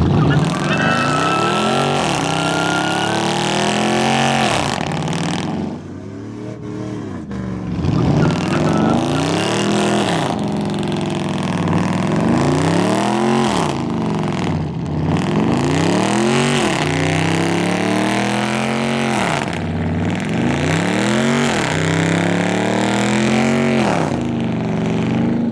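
A truck engine is revved over and over, its pitch climbing and dropping about every second and a half. A brief high whine sounds over it near the start.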